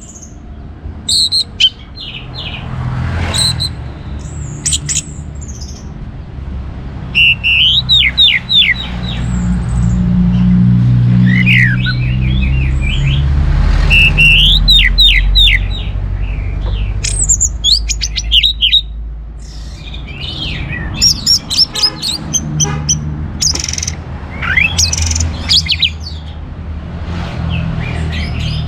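Orange-headed thrush singing loudly, in repeated phrases of quick falling whistled notes and twittering, over a low steady rumble.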